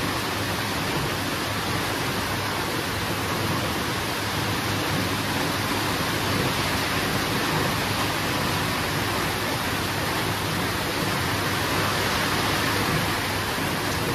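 Steady rain falling, an even hiss at a constant level with no thunder claps.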